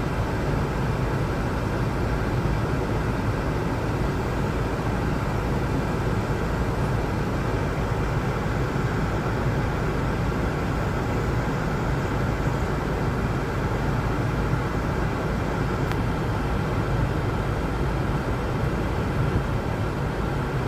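Steady low rumbling noise with no breaks or distinct events.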